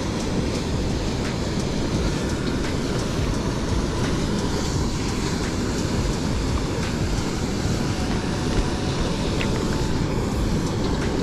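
Steady rush of a small mountain stream's flowing water, an even noise that holds at one level, with a few faint clicks over it.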